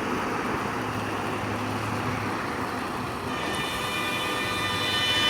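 Steady traffic and engine noise. About three and a half seconds in, a long multi-tone horn starts sounding and grows louder.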